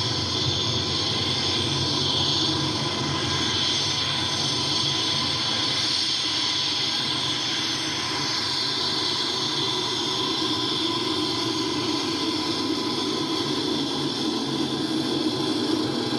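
Twin turboprop engines of a C-27 cargo plane running steadily, a continuous turbine whine over a broad engine noise.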